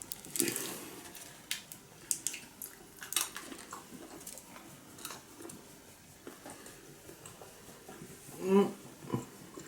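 Quiet, scattered crinkles and clicks of chocolate bars being unwrapped and eaten, with a brief vocal sound about eight and a half seconds in.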